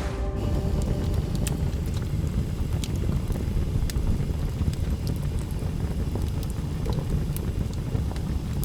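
A low, fluctuating rumble with scattered faint clicks.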